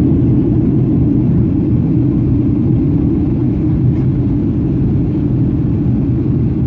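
Steady low rumble of a Boeing 737-800's cabin in flight on approach: airflow over the fuselage mixed with the drone of its CFM56 engines, even and unchanging.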